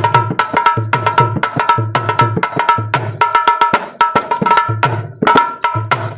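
Instrumental break in an Indian folk song: a hand drum plays a quick, steady rhythm of deep bass strokes and ringing higher strokes.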